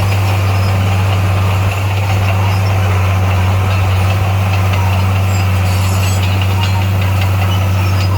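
Heavy diesel engine of earthmoving equipment running at a steady speed: a deep, unchanging drone.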